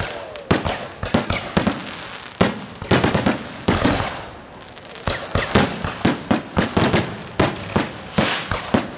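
Fireworks display: aerial shells bursting overhead in a quick succession of sharp bangs. There is a short lull about four seconds in, then a dense barrage of bangs.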